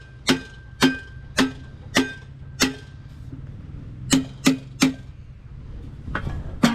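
Hammer blows on metal, each ringing briefly: five steady strikes about half a second apart, a pause, three quicker strikes, then one more near the end.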